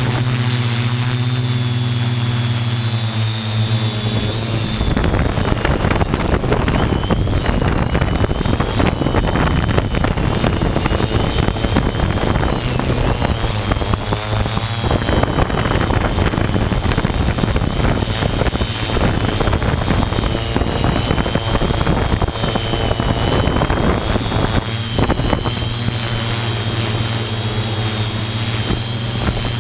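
Multirotor drone's motors and propellers running with a steady low hum and a high whine that wavers in pitch. From about five seconds in until near the end, gusts of wind rush over the microphone.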